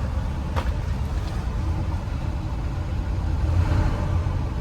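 1973 Chevy K20 pickup's engine idling a little rough, with a steady low rumble, just restarted after the truck sat for decades. A single sharp click sounds about half a second in.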